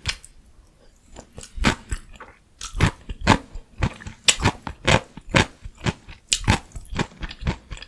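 Close-miked chewing and biting of crunchy vegetables, the cabbage rice wrap and its pickled sides: irregular crisp crunches, a couple a second, sparse for about the first second and steady after that.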